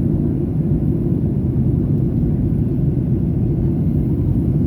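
Steady low rumble of a Boeing 737-800's cabin in flight, the jet engines and airflow heard from a window seat.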